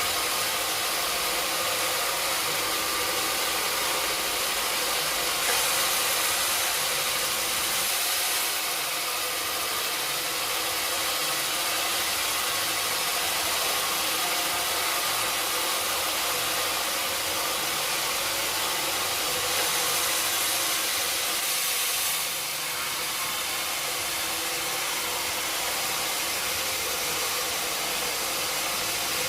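Sawmill machinery running steadily with a constant dense hiss, louder and higher for about three seconds around six seconds in and again around twenty seconds in.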